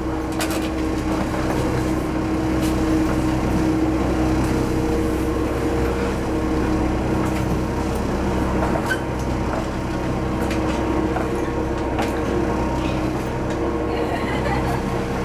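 Diesel railcar running along the line, heard from inside: a steady engine hum and wheel-on-rail rumble, with a few sharp clicks scattered through.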